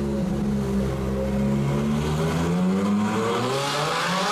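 Ferrari 458 Aperta's V8 with a Capristo exhaust, holding a steady note, then revving up hard with a sharply rising pitch as the car accelerates away in a tunnel.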